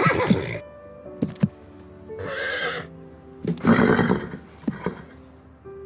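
A horse blowing out hard three times, breathy snorts, with a sharp knock about a second and a half in, over a soft music score of held notes.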